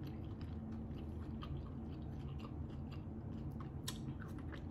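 A person chewing food close to the microphone, with small wet mouth clicks, then a single sharp bite about four seconds in as a green pickled piece is bitten into.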